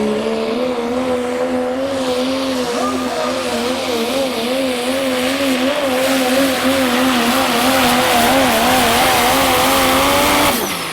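Modified diesel pickup truck's engine at full throttle, pulling a weight sled. The engine note wavers up and down in pitch as the truck bounces and the wheels spin, grows louder and rougher toward the end, then falls off sharply as the throttle is lifted.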